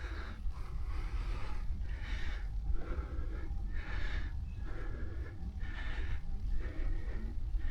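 A cyclist breathing hard while riding, one loud breath about every two seconds, over a steady low rumble of wind and road noise on the microphone.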